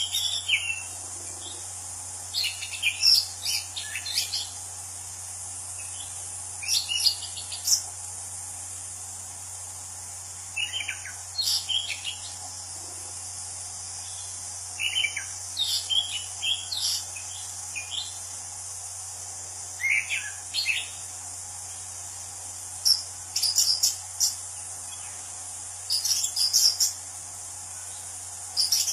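An orange-banded thrush (anis cendana) singing: clusters of quick, varied whistled notes, one short phrase every three to four seconds. A steady high insect drone runs underneath.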